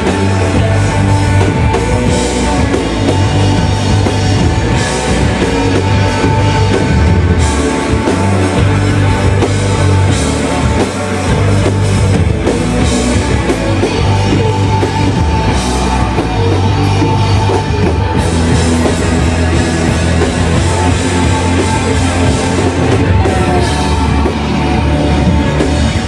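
Live shoegaze rock band playing loudly: dense, distorted guitars over bass and a drum kit with crashing cymbals.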